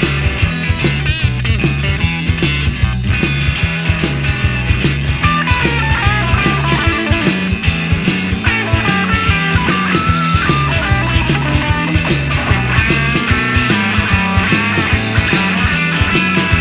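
Instrumental passage of a psychedelic blues-rock song: lead guitar playing over bass and a steady drum beat, with no singing.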